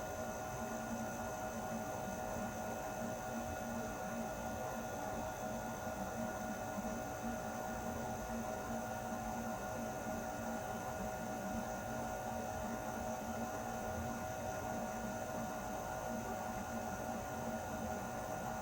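Air conditioner running steadily: an even hum made of several constant tones over a soft hiss.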